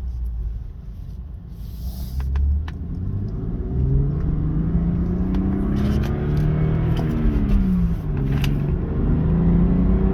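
2015 BMW 335i's turbocharged inline-six accelerating through the low gears, heard from inside the cabin. Its pitch climbs steadily for several seconds, drops sharply at an upshift about eight seconds in, then climbs again.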